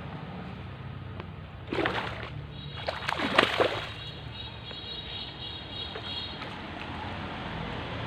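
Water splashing in two bursts, one about two seconds in and a louder one a second later, over a steady background hiss.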